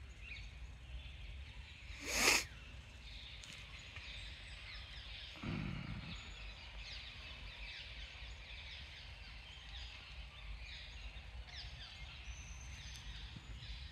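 Many small birds chirping and twittering over a steady low background rumble. A short, loud rustle-like burst about two seconds in.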